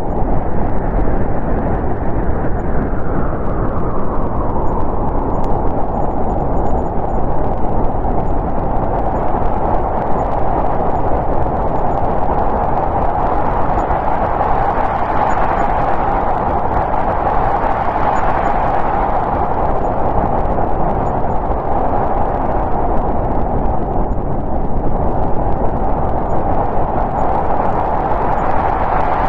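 Snowstorm wind blowing steadily, swelling into a stronger gust around the middle and easing off again.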